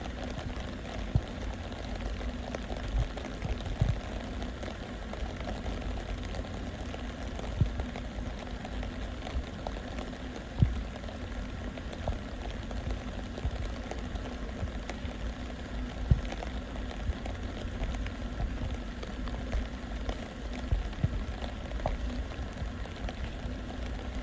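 Steady rain falling, with a handful of louder sharp taps scattered through it.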